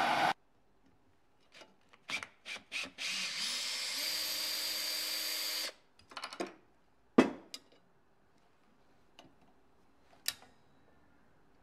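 Power drill run in three short trigger spurts, then held for a steady run of about two and a half seconds, followed by a few clicks and knocks of parts and tools being handled. A louder noise cuts off just after the start.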